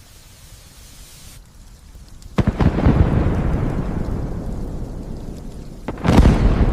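Thunder over light rain: a sudden crack of thunder about two and a half seconds in, rumbling and fading over a few seconds, then a second loud clap near the end.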